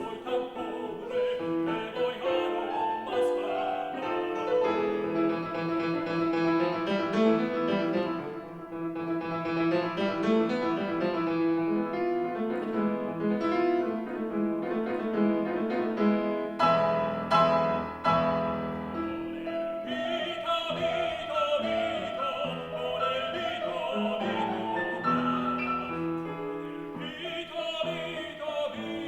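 Tenor singing a classical Spanish art song with piano accompaniment. The voice holds wavering, vibrato notes over busy piano chords, most plainly in the last third.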